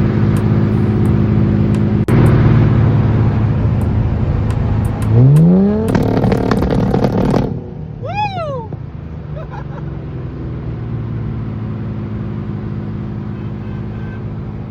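Car engine idling, revved up once about five seconds in. A short high-pitched squeal follows about two seconds later.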